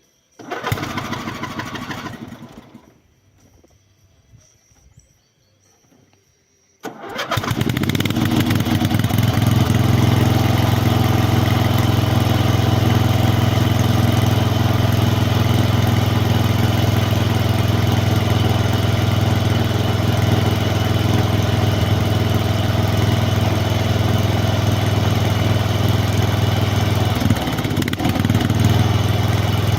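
MTD snowblower's engine on a cold start. A first attempt runs for about two seconds and dies. About seven seconds in it starts and settles into steady running, with a brief dip in speed near the end.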